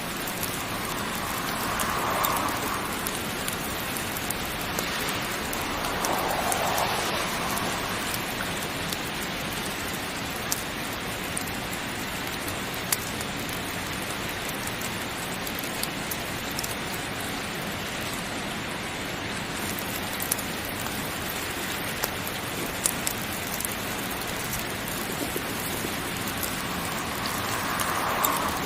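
Heavy rain falling steadily, swelling briefly a few times, with a handful of sharp isolated ticks partway through.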